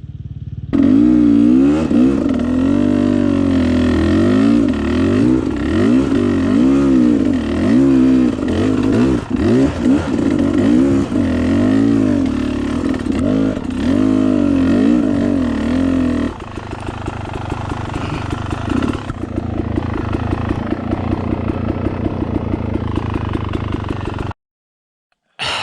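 Dirt bike engine revving hard up and down, pitch rising and falling rapidly as it claws up a steep hill. About two-thirds of the way in it drops to a lower, steady run, with the single firing pulses closely spaced, then cuts off abruptly near the end.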